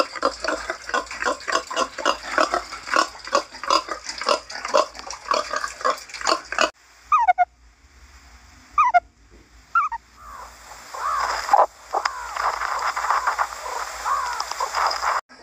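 Wild boars grunting in quick succession for the first several seconds. Then meerkats calling: a few short falling chirps, followed by a denser run of chirping chatter.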